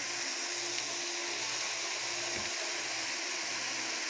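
Ground beef and chopped onion, garlic and vegetables sizzling steadily in a pot as they are sautéed.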